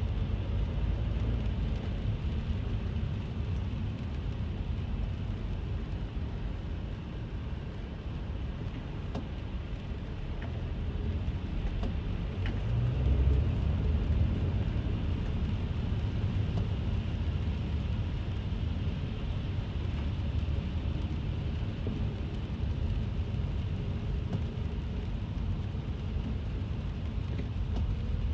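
Inside a moving car on a rainy road: a steady low rumble of engine and tyres, with a fainter hiss of wet road and rain over it. The rumble swells briefly about thirteen seconds in.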